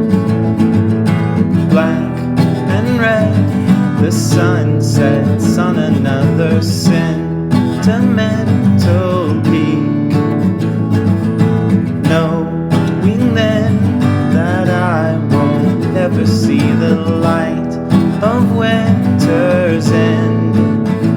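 Song with steadily strummed acoustic guitar and a wavering melody line over it.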